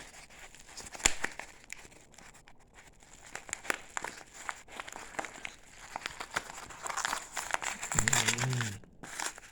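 Plastic packaging crinkling and crackling as it is worked open by hand, with scattered sharp clicks, one about a second in. A short hum or grunt near the end.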